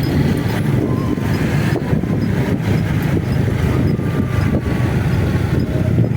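Motorcycle riding at a steady pace: continuous engine and road noise with a low rumble.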